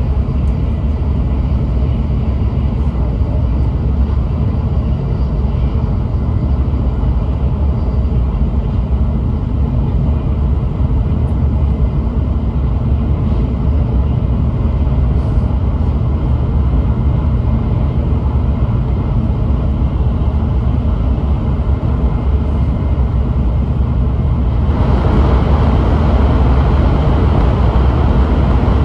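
Cabin running noise of an N700S Shinkansen at speed: a steady low rumble. About 25 seconds in, the train enters a tunnel and the noise jumps suddenly louder and harsher.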